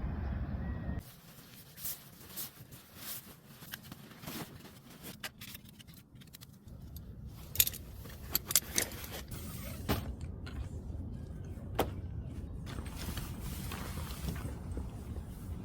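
Camping gear being handled and packed up: scattered clicks, clinks and knocks, a few of them sharp.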